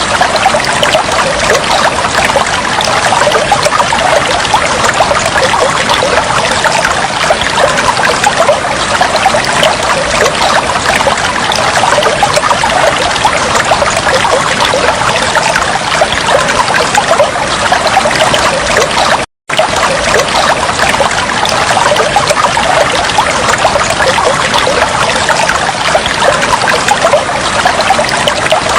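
Steady trickling, babbling flowing water. It cuts out for a split second about nineteen seconds in, then carries on unchanged.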